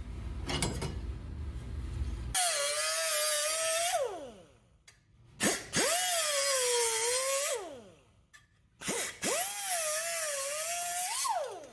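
A high-speed cut-off tool trimming sheet metal in three short runs. Each run is a high whine with hiss that winds down in pitch when the trigger is let go.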